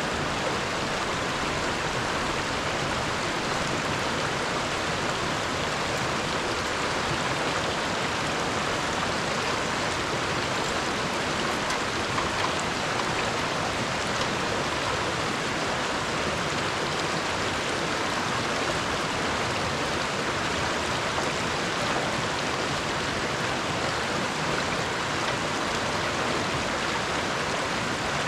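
Mountain river rushing past, a steady, even water noise.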